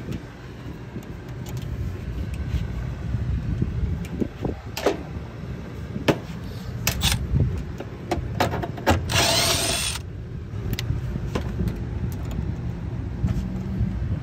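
Hand tools working on a condenser fan motor's mounting: scattered metallic clicks and knocks, with a brief power-tool whir about nine seconds in, over a steady low rumble.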